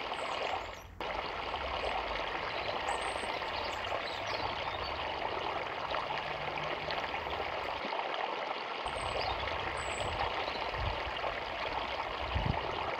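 A small forest river running: a steady rush of flowing water that dips briefly about a second in.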